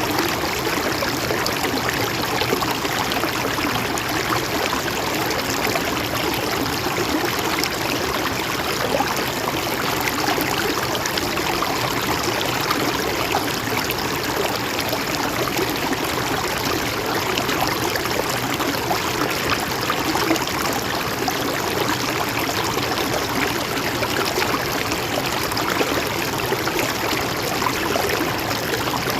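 Mountain stream running steadily over rocks, a continuous even rush of flowing water with fine trickling.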